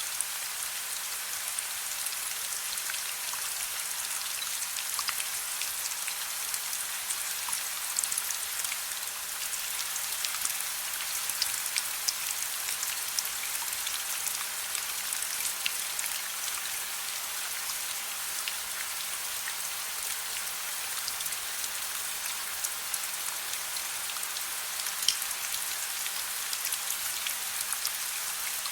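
Steady rain: an even hiss with many small, sharp drop ticks scattered through it, and an occasional louder tick.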